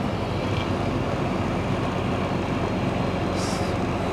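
Steady drone of a semi truck's diesel engine and tyre noise, heard from inside the cab while driving. A short hiss comes about three and a half seconds in.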